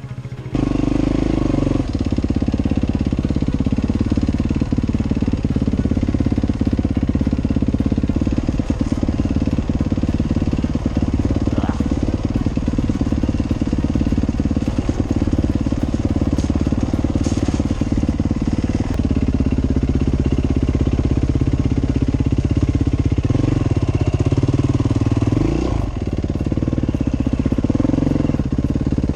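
Dirt bike engine running as the bike is ridden along a trail, its note shifting with the throttle, with a short rise in revs about 26 seconds in.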